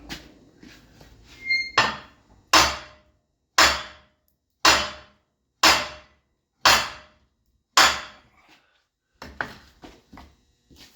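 Heavy hammer blows on the steel plow frame, about seven hard strikes roughly a second apart, each ringing briefly, then a few lighter knocks. The bent frame is being hammered to straighten it.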